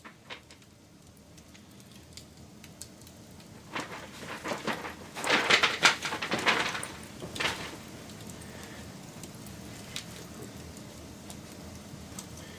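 Wood fire crackling: scattered sharp pops over a steady low hiss, with a dense flurry of loud crackles near the middle.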